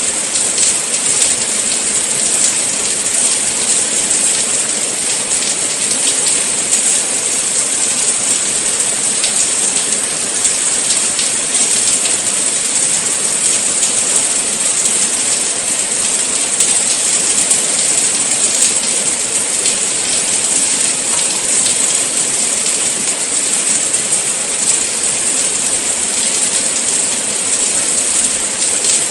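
Steady rain falling: an even, bright hiss with fine patter of drops, unchanging throughout.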